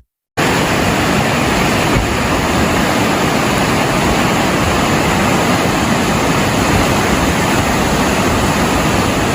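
Loud, steady rush of water, starting suddenly a moment in and running on evenly without change.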